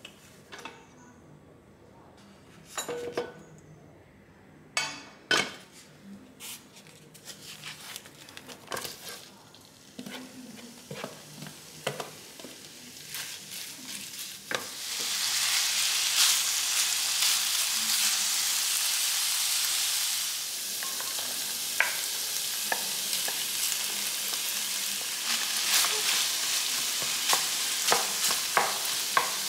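Ground pork, later with diced onion, frying in a non-stick frying pan while a wooden spatula stirs and scrapes it. The first half holds only scattered knocks and taps; about halfway through a loud steady sizzle sets in and carries on, with spatula clicks over it.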